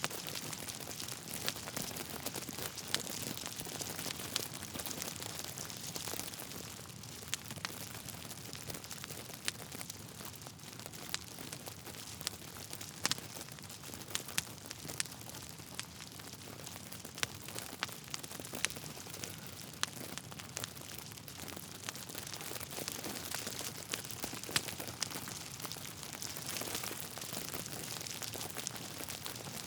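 Wood fire crackling in a fireplace: irregular sharp pops and snaps of burning logs over a steady hiss.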